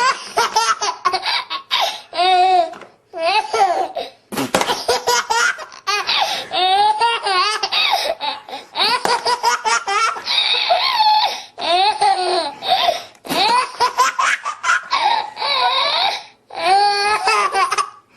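A small child laughing hard, in long fits of rapid, high-pitched laughs broken by a few short pauses.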